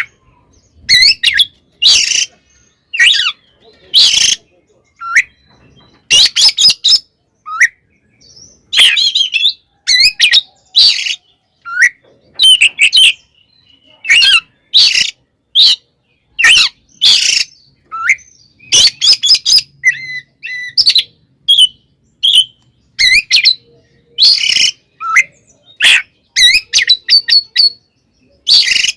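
Oriental magpie-robin (kacer) singing in its agitated, aggressive 'fighting' style: a rapid series of short loud phrases, clear sweeping whistles mixed with harsh rasping chatter, about one burst a second with brief gaps between them.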